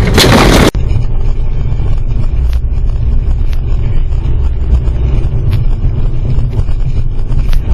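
A loud, harsh burst of noise lasting under a second that cuts off abruptly, then the steady low rumble of a car driving, heard from inside the cabin, with a few faint ticks.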